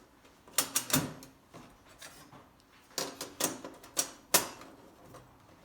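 Hard parts clacking and knocking as they are handled: a quick run of sharp clicks about a second in, and another run from about three to four and a half seconds in.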